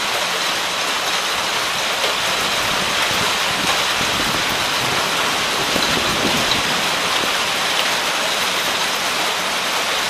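Steady rain from a passing thunderstorm, falling as an even hiss.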